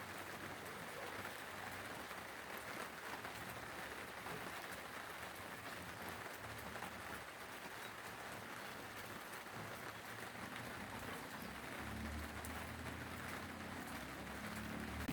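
Steady rain falling, an even hiss, with a faint low hum coming in during the last few seconds.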